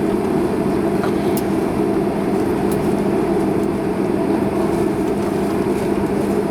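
Steady airliner cabin air-conditioning rush with a low steady hum inside a Boeing 767-300 during pushback, the air-conditioning packs still running before engine start.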